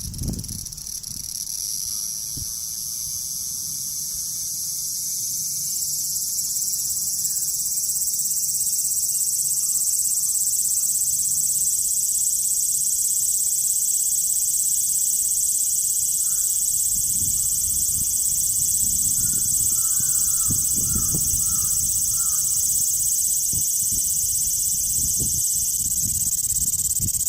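A dense chorus of cicadas calling together, a steady shrill buzz that swells over the first few seconds and then holds without a break. A low rumble sits under it for a few seconds past the middle.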